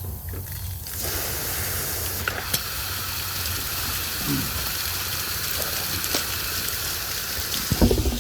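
Water hissing and spraying from a broken pipe under pressure, a steady spray that starts about a second in: the valve feeding it is broken and can't be shut off. A few low bumps near the end.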